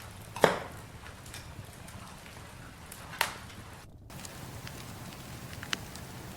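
Campfire burning: a steady low rumble of flames under scattered sharp crackles and pops, with a loud pop about half a second in and another a little after three seconds.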